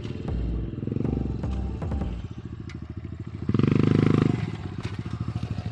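Dirt bike engine idling with a fast, even putter, revved up briefly about three and a half seconds in before dropping back to idle.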